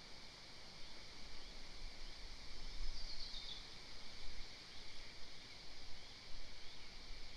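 Outdoor ambience on an eagle-nest camera microphone: a steady high hiss and an uneven low rumble. About three seconds in, a bird gives a short descending call.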